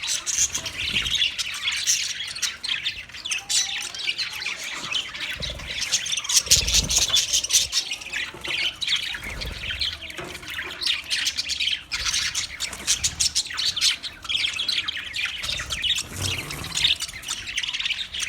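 Budgerigars chattering and warbling continuously, a dense run of rapid chirps, squawks and clicks.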